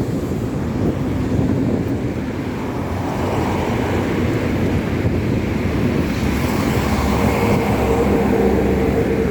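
Road traffic heard from a moving bicycle, with a steady rush of wind and road noise. About six and a half seconds in, a passing vehicle's engine drone comes in and holds to the end.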